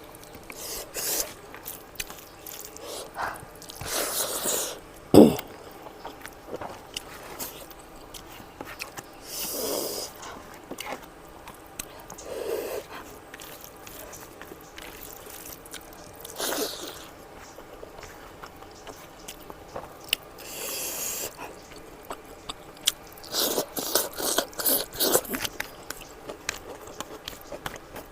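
Close-up eating sounds: chewing and mouth clicks, broken by about half a dozen short, noisy breaths or sniffs, with one sharp knock about five seconds in.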